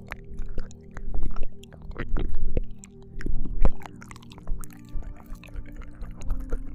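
ASMR ear-licking mouth sounds on a binaural microphone: irregular wet clicks and smacks in clusters of a second or so, over steady low held tones.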